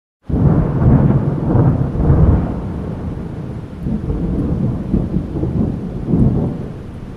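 Thunder breaks in suddenly as a loud, deep, crackling rumble, loudest in its first couple of seconds. It then rolls on, swelling again several times as it slowly fades.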